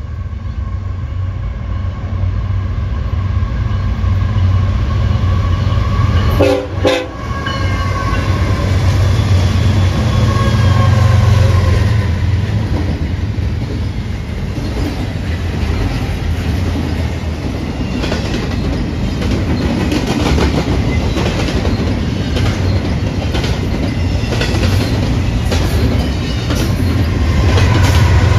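A double-stack intermodal freight train passing close by. The horn sounds through the first half and falls slightly in pitch as the lead units pass, with a brief break in the middle. The rumble and rhythmic clicking of the stack cars' wheels over the rail follow, and near the end a locomotive in the consist comes up with a louder diesel drone.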